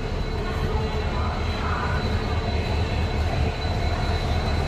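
Train running on the track: a steady rumble with a regular low pulsing beat and a faint thin high tone.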